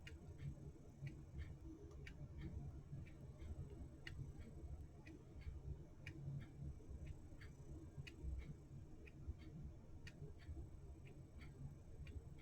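Clock ticking faintly and steadily, about two ticks a second, over a low room rumble.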